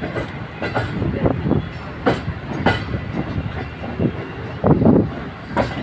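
Green Line Express passenger train rolling past, its wheels clattering over the rail joints in a steady rumble with sharp irregular knocks.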